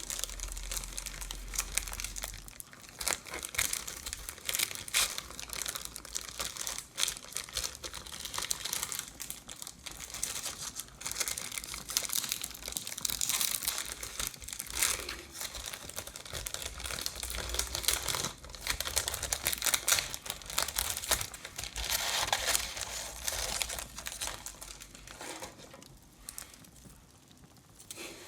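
Crinkly wrapping being handled and unwrapped close to the microphone: a dense, continuous run of crackling and rustling that dies down over the last couple of seconds. The wrapping is the packaging around a large star-shaped Christmas ornament.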